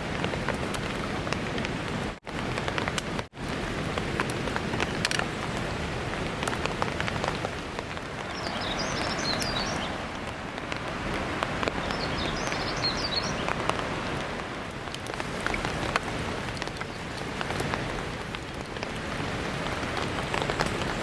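Steady rain falling, with separate drops tapping now and then. The sound cuts out briefly twice near the start, and two short bursts of high twittering come in around the middle.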